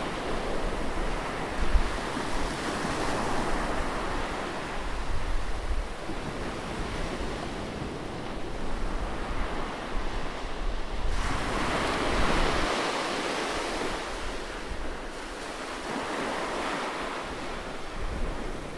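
Ocean surf rushing in steady swells that rise and fall every few seconds, with wind buffeting the microphone in low rumbles.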